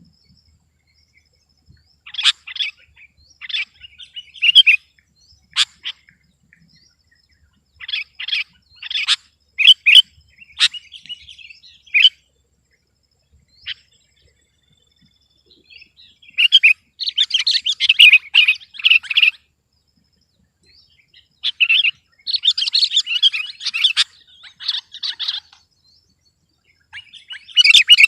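Sooty-headed bulbul (kutilang) singing: short, separate chirpy phrases, then after a pause of a few seconds, longer, busier runs of song.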